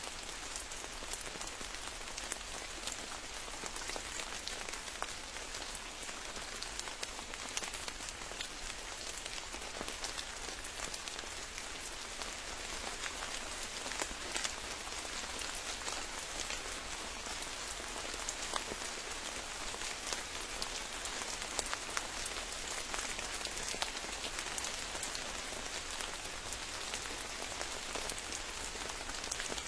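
Steady rain falling, an even hiss with many distinct drops ticking close by.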